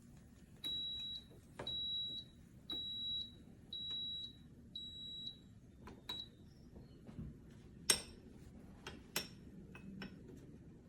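An electronic appliance beeper sounding five high, even beeps about a second apart, then a shorter sixth one, followed by a couple of sharp clicks or knocks.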